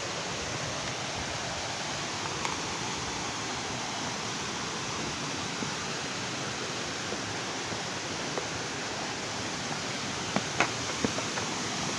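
Steady rushing of a waterfall, with a few light knocks about ten seconds in.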